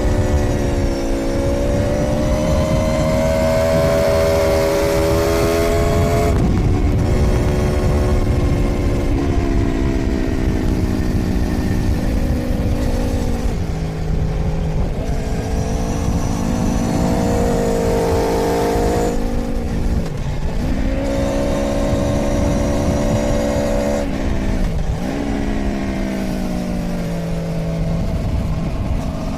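2013 Aprilia Tuono V4's V4 engine at full throttle, climbing in pitch through the revs and dropping sharply about four times as it shifts or closes the throttle for corners.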